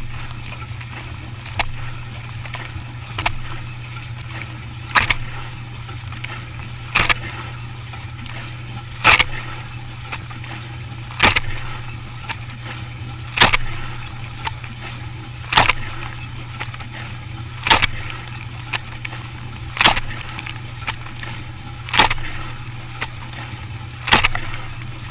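A machine running with a steady low hum, and a sharp knock repeating evenly about every two seconds, about a dozen times.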